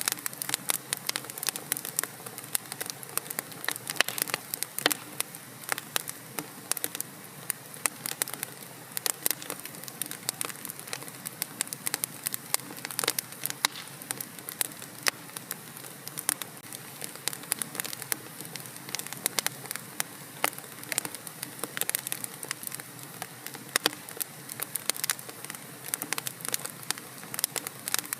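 Wood fire burning in a fireplace, crackling steadily with frequent sharp pops and snaps over a soft hiss.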